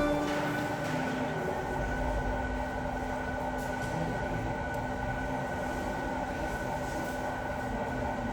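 Steady background noise with a faint continuous hum running through it.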